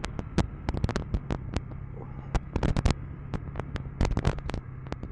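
KTM 390 Enduro R's single-cylinder engine running with a steady low hum, under a rapid, irregular scatter of sharp clicks and knocks as the bike rides a rough dirt road.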